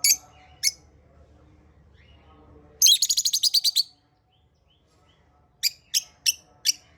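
Small pet parrots chirping: a couple of sharp high chirps, a quick chattering run of about ten chirps in a second midway, then four separate chirps near the end.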